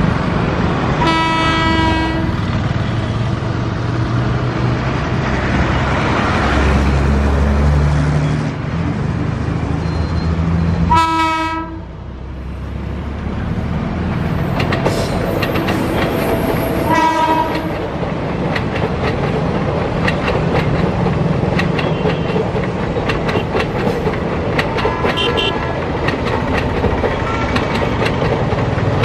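Indian Railways electric locomotive horns sounding in several short blasts, over the continuous rumble of express trains running past. The wheels clatter as the coaches go by.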